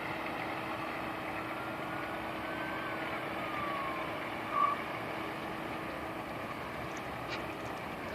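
A fire engine runs steadily with a continuous low hum over a wash of street noise. A faint whine rises and then slowly falls about one to four seconds in.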